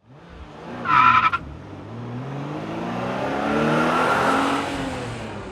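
2017 Toyota Corolla iM's 1.8-litre four-cylinder, fitted with a cold air intake, ceramic header and aftermarket exhaust, revving up over a couple of seconds and dropping back. A brief loud high squeal comes about a second in.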